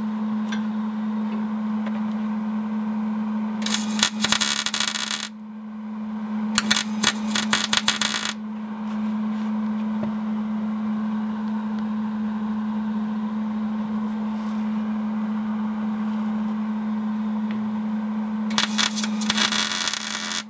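Electric arc welder crackling in three short bursts, each lasting a second or two, as tack welds are laid on a broken exhaust hanger bracket caked with dirt. A steady low hum runs underneath.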